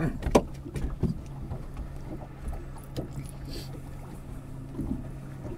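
Mercury Verado outboard running steadily at trolling speed, an even low hum on its new spark plugs and coils, with a few knocks of handling in the boat, the loudest about half a second in.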